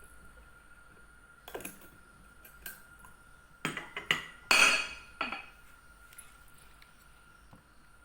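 Dishes and utensils being handled in a kitchen: a string of separate clinks and knocks, the loudest about four and a half seconds in.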